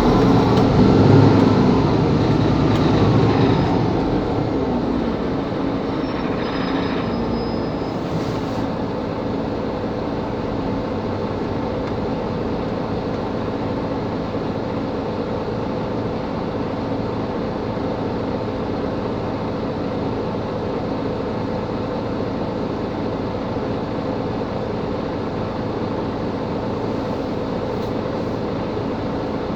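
Mercedes-Benz Capacity L articulated city bus running. Its engine note falls away over the first few seconds, then settles into a steady low drone that continues unchanged.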